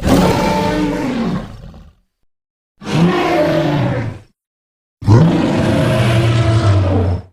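Three roars from a dinosaur creature sound effect, each a separate pitched call about one and a half to two seconds long, ending abruptly in dead silence between them.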